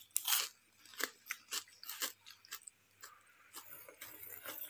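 Close-up crunching of a person chewing a crispy fried sweet pakora: a run of sharp, irregular crunches, loudest in the first second and softening as the bite is chewed down.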